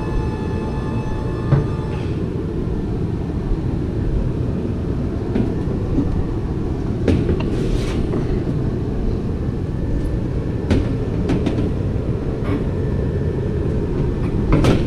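A steady, loud low rumble of running shop equipment, with a high whine that stops about two seconds in. Scattered clinks and knocks of metal parts being handled during a gearbox teardown.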